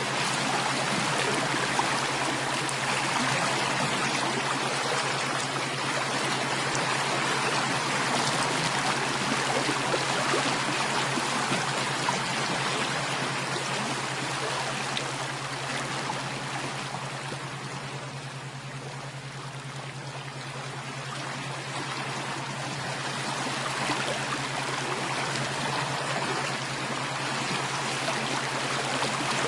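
Flowing stream water: a steady rushing and trickling that eases a little about two-thirds of the way through, with a steady low hum underneath.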